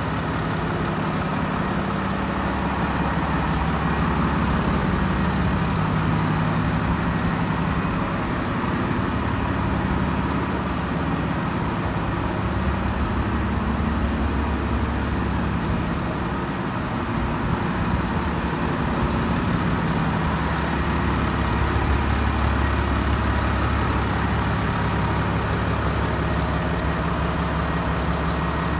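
Volvo FM 450 tractor unit's 13-litre straight-six diesel engine idling steadily.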